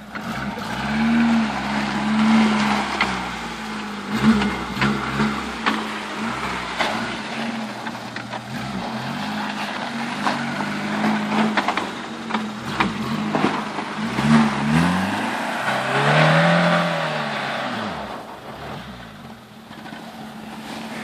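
Suzuki Samurai's small four-cylinder engine revving up and down in repeated bursts as the 4x4 climbs and manoeuvres on icy snow. The biggest swells come about a second in and again after about fourteen seconds, with tyre and gravel crackle over the engine and a quieter spell near the end.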